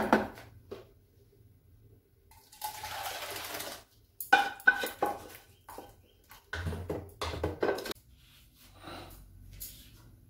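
Kitchen handling sounds: a brief rushing hiss of about a second, then several bouts of pots and utensils clattering and knocking against each other.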